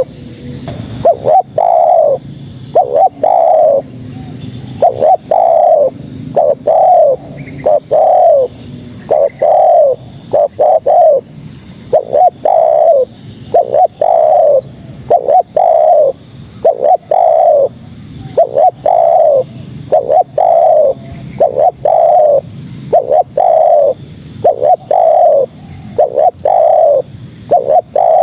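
Spotted dove (tekukur) cooing over and over: short, loud coos about one to two a second, in short phrases. It is presented as a female's call to draw in males.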